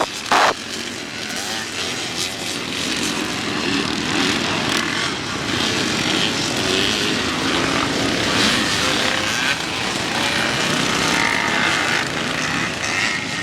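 Vintage motocross motorcycles running on the track, engines revving up and easing off as the bikes pass. Two sharp thumps come right at the start.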